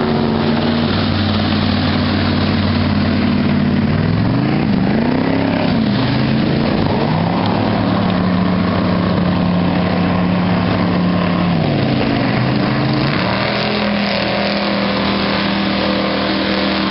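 Motorboat engine running under a steady rush of wind and water. Its pitch dips and climbs again about four seconds in, settles, then falls and steps back up about twelve seconds in as the throttle changes.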